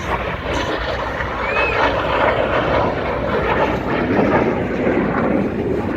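Jet noise from BAE Hawk T1 display jets flying over, a steady rushing sound that swells slightly about two to three seconds in.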